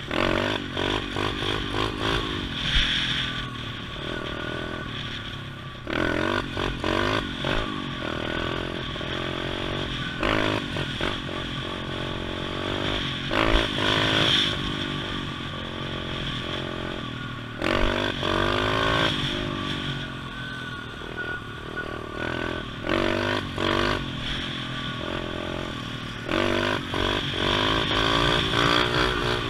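Small single-cylinder pit bike engine being ridden, revving up and dropping back again and again as the throttle is opened and closed.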